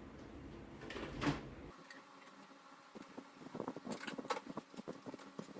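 Light knocks, then a run of quick clicks and rattles in the second half: hard plastic and metal parts being handled while a door-latch part is taken from a scrap microwave.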